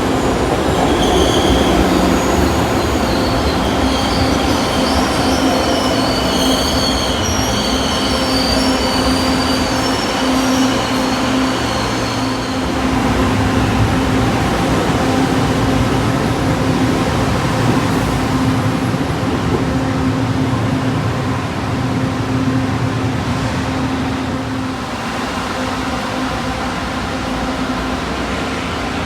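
LRT Line 2 train running on the rails, its wheels squealing with high thin tones for roughly the first twelve seconds. A steady low hum runs underneath.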